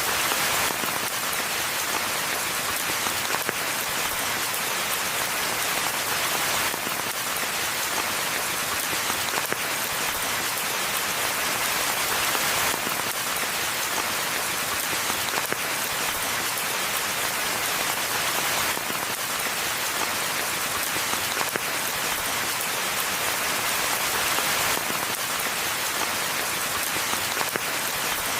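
Steady rainfall: a dense, even hiss of many drops, with no thunder.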